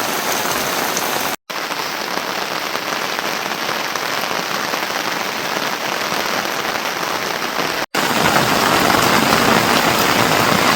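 Steady rain falling on surfaces. It cuts out completely twice for an instant, about a second and a half in and near eight seconds, and is a little louder after the second break.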